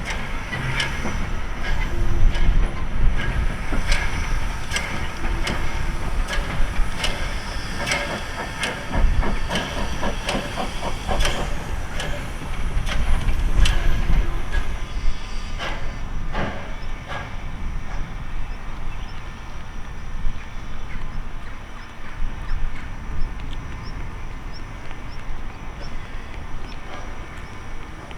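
Tubize 2069 steam locomotive moving slowly over the track, with a low rumble, hissing steam and a regular run of wheel clicks over rail joints; the clicks die away about halfway through and the sound settles to a quieter rumble.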